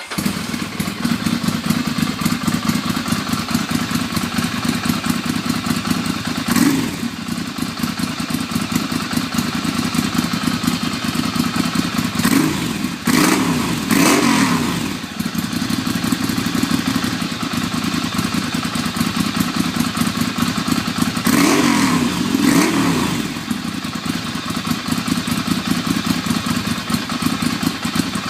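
Ducati Monster 696's air-cooled L-twin engine idling through an aftermarket Leo Vince exhaust, revved up briefly six times: once, then three in quick succession, then twice more, falling back to idle after each.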